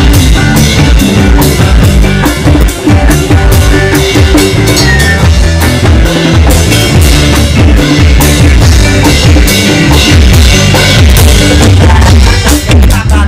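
A live reggae band playing an instrumental passage without vocals. The drum kit is to the fore, with bass and guitar, recorded very loud.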